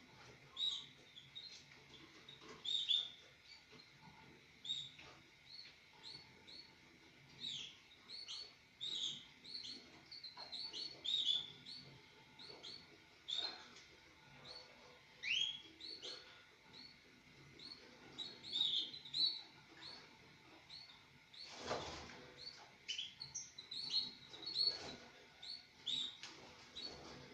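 Mosaic canaries chirping in their breeding cage: a near-constant run of short, high chirps with an occasional rising note. A brief knock or rustle comes about two-thirds of the way through.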